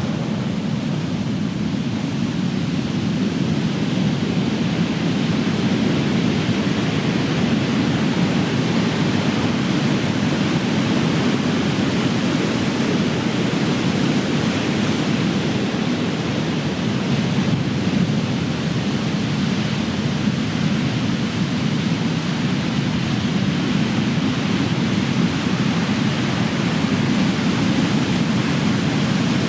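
Ocean surf crashing and washing on the shore in a continuous deep rumble, swelling and easing slowly with the waves.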